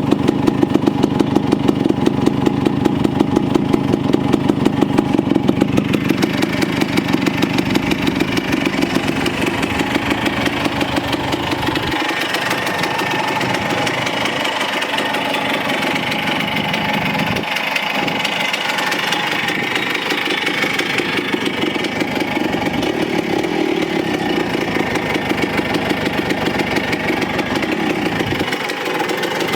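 Kawasaki KE125's single-cylinder two-stroke engine running with an even, pulsing beat. About twelve seconds in the deep low end drops away and a thinner, higher engine sound carries on steadily.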